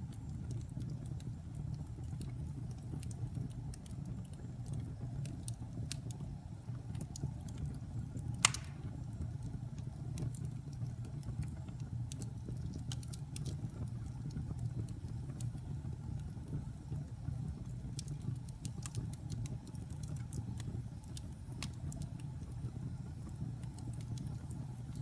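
Wood fire burning in a fireplace: a steady low rumble of flames with scattered sharp crackles, and one louder pop about a third of the way through.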